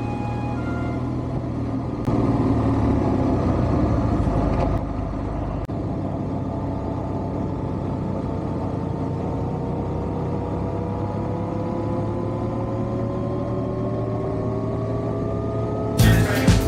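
Motorcycle engine running steadily under way, its pitch slowly rising through the second half as it gathers speed, with a louder stretch from about two to five seconds in. The last moment of music fades out at the start, and a sudden loud burst of noise comes in at the very end.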